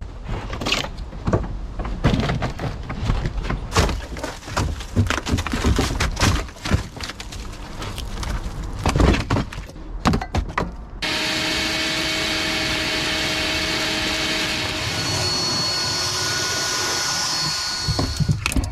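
Irregular knocks, clicks and scrapes of hand-tool work on engine parts. About eleven seconds in they give way abruptly to a steady machine whir with a hum, which runs for several seconds.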